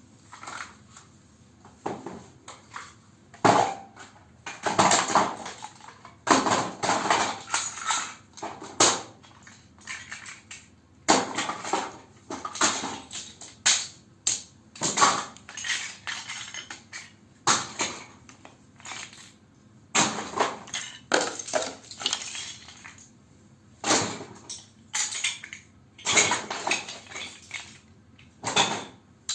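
Plastic Lego bricks clattering in repeated bursts, each a second or so long, with short pauses between them.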